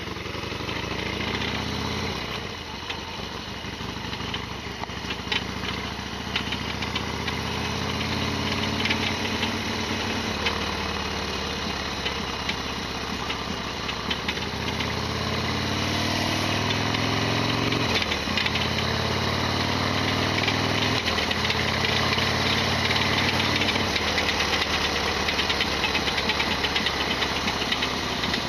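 Harley-Davidson Sportster XL1200R's air-cooled V-twin running under way, its pitch climbing and then dropping sharply twice in the second half as the revs change. Through it runs the clattery rattle the owner calls noisy as ever, an abnormal noise from the modified bike.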